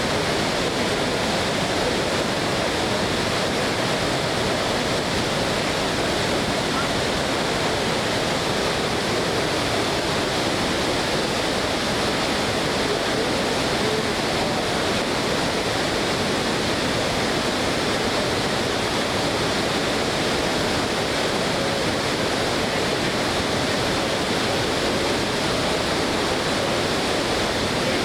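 Floodwater pouring over McLaren Falls: a steady, dense rush of water that does not change.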